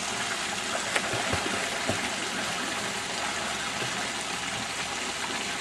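Water rushing steadily out through the lagoon's drain outlet, with a couple of light knocks about one and two seconds in.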